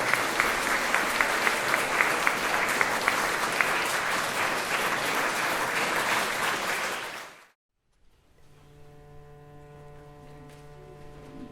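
Audience applauding with many sharp individual claps, dying away about seven seconds in. After a brief silence, a quiet drone of steady held notes begins.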